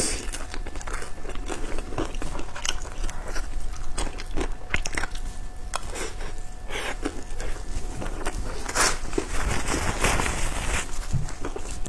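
Close-miked biting and chewing of pan-fried pork buns (shengjianbao) with browned bottoms: irregular wet mouth clicks and smacks.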